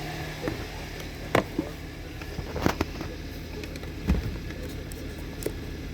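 2017 Hyundai Sonata 2.4L inline-four engine idling steadily, with a few sharp clicks or knocks over the top of it.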